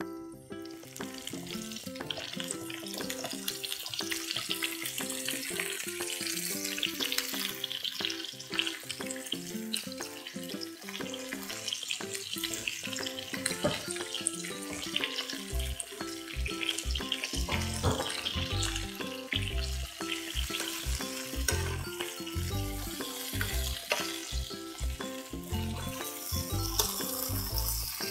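Blanched, spice-coated cauliflower florets sizzling as they shallow-fry in a little oil in a non-stick pan, with a spoon turning them near the end. Background music plays underneath, a bass beat joining about halfway through.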